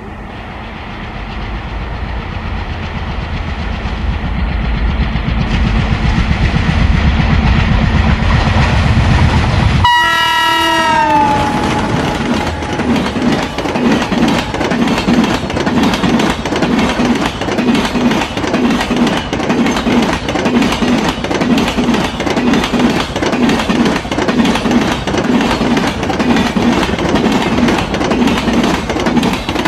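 A diesel-hauled express train passing at speed: the locomotive's engine rumble builds as it approaches, its horn sounds briefly about ten seconds in and drops in pitch as it goes by, then the coaches follow with a steady, rapid clickety-clack of wheels over rail joints.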